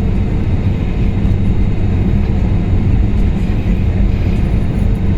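Steady, loud low rumble and hum of a moving vehicle heard from inside its cabin.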